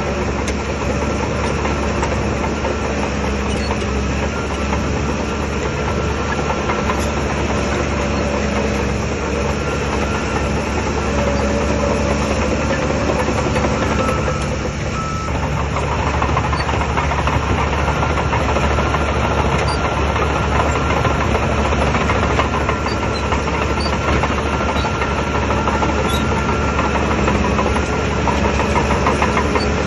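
Shantui DH17 bulldozer's diesel engine running steadily under work, with a brief dip in loudness about halfway through.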